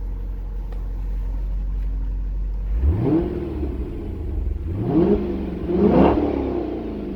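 2010 Dodge Challenger SRT-8's 6.1-litre HEMI V8 idling, then revved three times in quick blips, each rising sharply in pitch and falling back, the last rev the loudest, before settling back toward idle.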